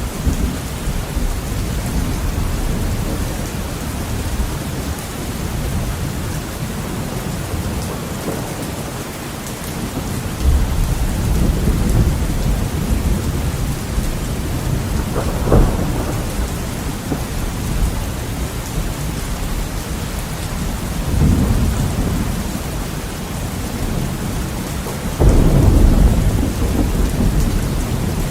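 Heavy rain hissing steadily against a window, with thunder rumbling several times, the loudest roll near the end.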